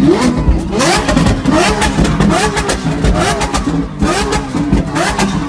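Car engine revved hard over and over through a loud exhaust, the pitch rising and falling with each blip, with many sharp cracks and pops between the revs.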